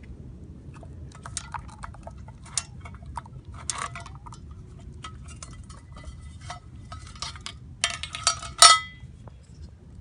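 Metal camp cookware clinking and clattering, as pots, lids and utensils knock against each other in a run of separate clinks with a short metallic ring. A denser, louder burst of clatter comes near the end, over a low steady rumble.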